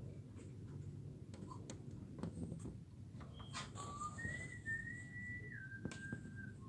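Whistling: a few held, steady notes beginning about four seconds in, high at first and stepping down in pitch near the end, after some short clicks.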